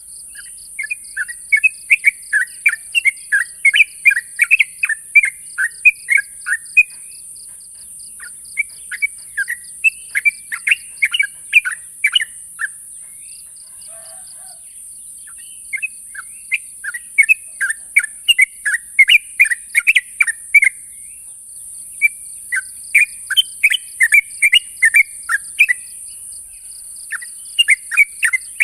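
Yellow-vented bulbul (cucak trucuk) singing its challenge call to rivals: runs of quick, bubbling, chattering notes in phrases of several seconds, with a pause of about three seconds midway.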